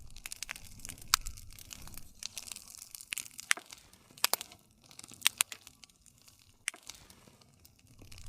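Wood fire crackling, with irregular sharp pops and snaps over a soft, low rumble of flame.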